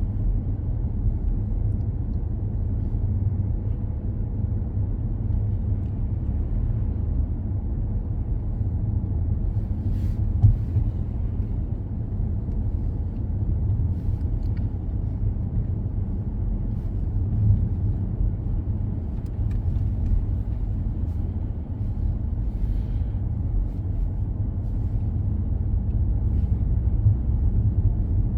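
Car driving along a road: a steady low rumble of engine and tyre noise, with a brief click about ten seconds in.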